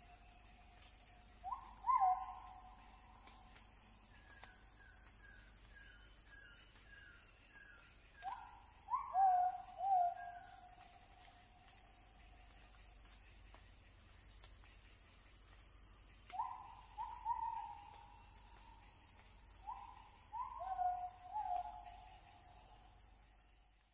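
Birds calling: a clear, medium-pitched call that jumps up and then holds or slides down, coming in groups of two or three every several seconds, with a quick run of about eight short, higher notes a few seconds in. A steady high insect drone runs underneath.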